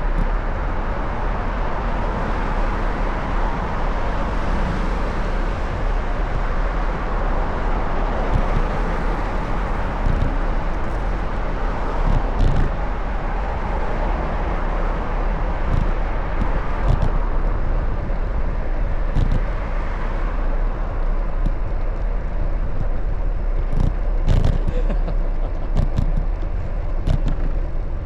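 Steady city traffic noise from passing cars, heard from a moving bicycle, with a constant low wind rumble on the microphone. A few brief knocks come about halfway through and again near the end.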